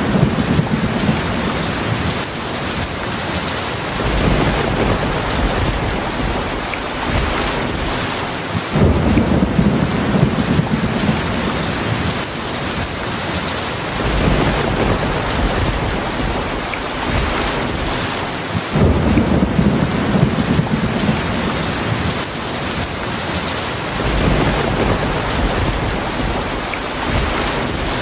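Heavy rainstorm: a steady, dense hiss of rain, with low rolls of thunder rumbling in about every five seconds, five times, each starting abruptly and lasting a few seconds.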